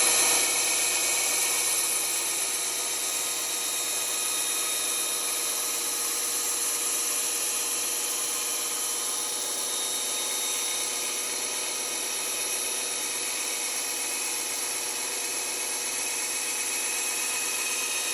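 Band saw running and cutting a wooden workpiece: a steady, even hiss with a faint steady hum underneath.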